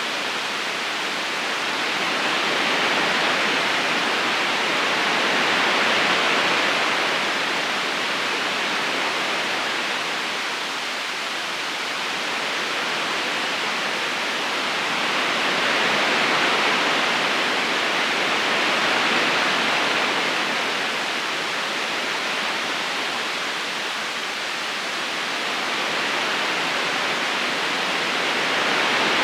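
Steady rushing of a river's current, an even hiss of water that swells and eases slowly every several seconds.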